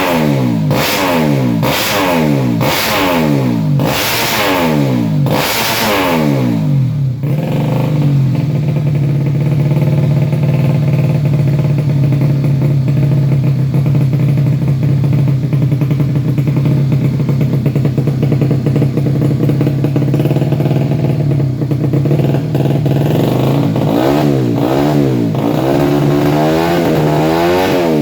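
Motorcycle engine running through an aftermarket racing exhaust, revved up and down about once a second, then held at a steady speed, then blipped quickly again near the end.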